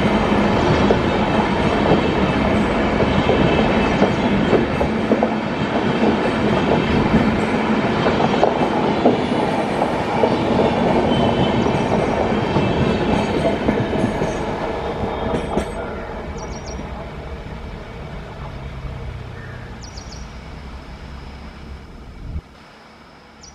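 Express train of LHB passenger coaches passing close at speed, a loud steady rumble and rattle of wheels on the rails. From about fifteen seconds in it fades as the end of the train moves away, with a few sharp clicks, and it cuts off near the end.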